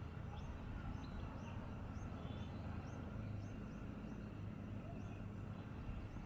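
A small bird chirping repeatedly, short high chirps about twice a second that stop about five seconds in, over a steady low rumble.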